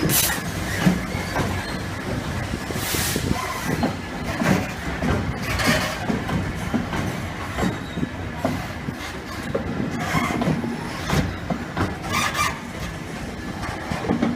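A train moving on the rails, its wheels knocking unevenly over rail joints and points, with several short hissing or squealing patches along the way.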